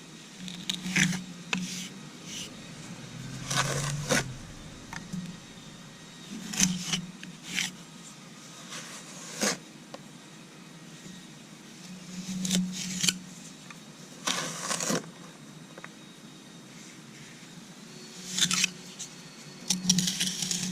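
Hand trowel scraping and pressing a stiff, dry sand-and-Portland mortar patch into a vertical face of concrete steps. It comes as irregular short scrapes with pauses between them.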